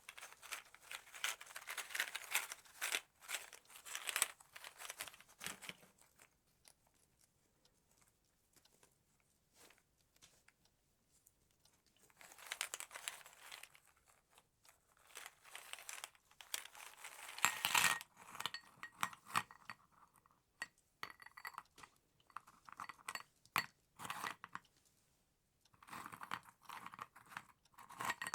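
Close-up crinkling and rustling of paper or wrapping being handled, in several bursts with pauses between, and light clinks of small objects being set down in the second half.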